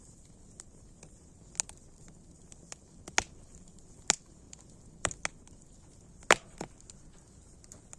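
Campfire wood crackling: irregular sharp pops and snaps, about seven louder ones and the loudest about three-quarters of the way through, over a faint steady hiss.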